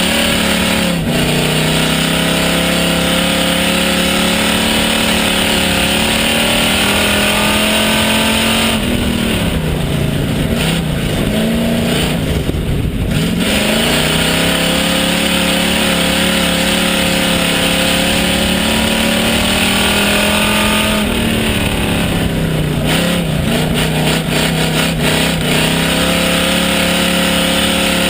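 Pure stock race car's engine at racing speed, heard from inside the car: held high on the throttle, then falling in pitch and climbing back twice as the driver lifts off and gets back on the power.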